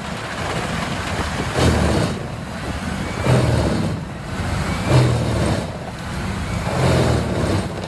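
Vermeer HG6800TX horizontal grinder at work, a heavy diesel running under load, its engine and grinding noise swelling in surges about every second and a half to two seconds.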